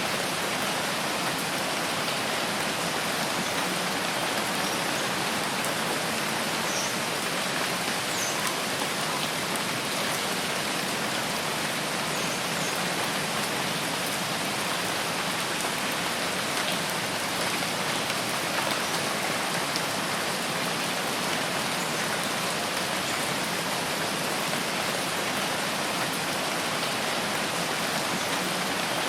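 Steady rain falling, an even hiss that never lets up, with a few faint high chirps in the first half.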